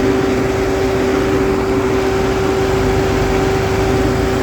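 Tracked chain harvester running steadily under power, a loud engine drone carrying a constant mid-pitched hum.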